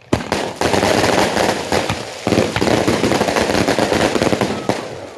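A firecracker battery (a "batalhão") going off in a rapid, dense barrage of bangs, with a brief lull about two seconds in before it carries on and stops near the end.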